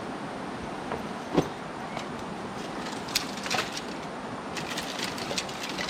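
Dry firewood sticks knocking and cracking as they are handled and laid for a campfire. One louder knock comes about a second and a half in, and a run of small cracks near the end, over a steady rushing noise.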